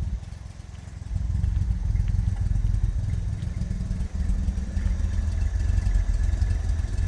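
Classic Jaguar car's engine running at idle: a steady low rumble that dips briefly just after the start, then holds.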